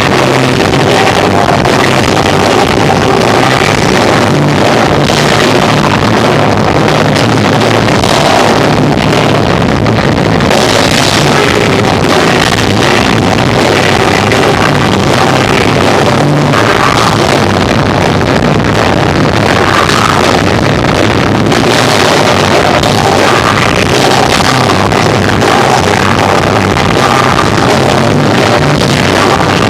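Live rock band, electric guitar, bass and drums, playing loud and steady, recorded through an overloaded microphone so the sound is heavily distorted and muddy.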